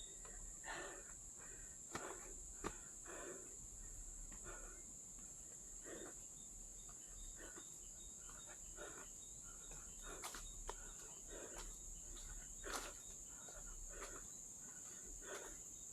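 Forest insects, crickets or cicadas, keeping up a steady high-pitched drone, faint, with scattered short rustles and clicks over it.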